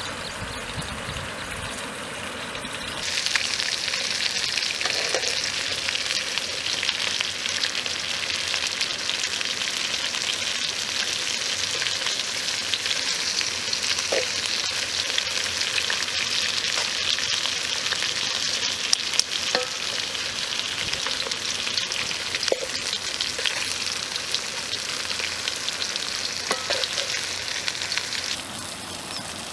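Fish frying in hot oil, a dense steady sizzle that starts suddenly about three seconds in and cuts off abruptly near the end, with an occasional faint pop.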